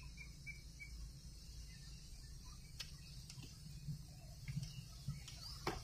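Faint background ambience: a steady low rumble, with a quick run of faint high chirps about a second in and a few scattered faint clicks.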